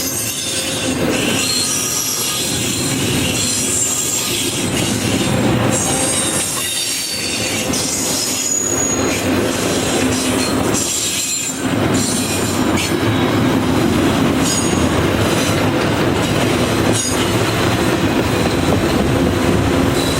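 A train rolling past, its railcars making a loud, steady rumble with wheels squealing in short, high, shifting tones now and then.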